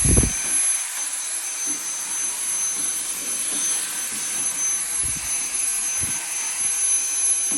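Vacuum cleaner running steadily with a high whine, sucking dust and lint out of the opened dryer cabinet. A few dull low bumps come through, the loudest right at the start.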